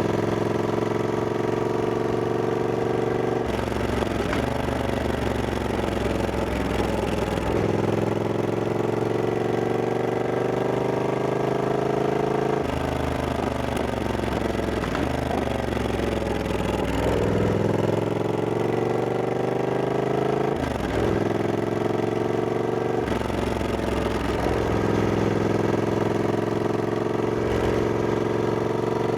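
Triumph Scrambler 1200X's 1200 cc parallel-twin engine under way, its note climbing steadily with speed and dropping sharply at each gear change, about seven times.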